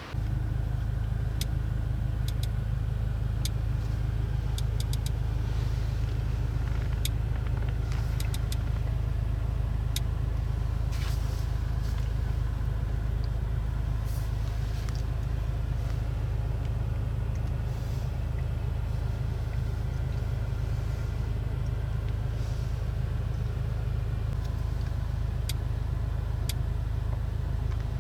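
2024 Audi S3 Sportback with its 2.0-litre turbocharged four-cylinder driving at a steady speed: a constant low drone that neither rises nor falls, with scattered faint ticks.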